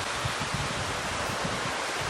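Wind blowing steadily, with gusts buffeting the microphone as uneven low rumbles under a constant hiss.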